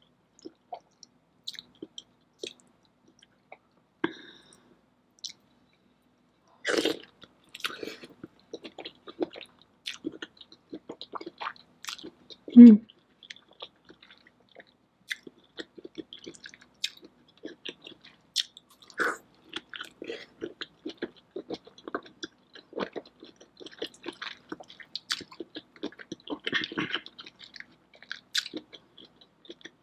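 Close-miked mukbang eating: wet chewing, lip smacks and sticky squishes of sauce-covered seafood-boil prawns, in short separate bursts. About halfway through there is one louder, short low sound.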